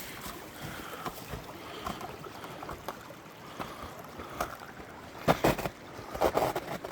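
Small creek running steadily, with scattered footsteps, several in quick succession near the end.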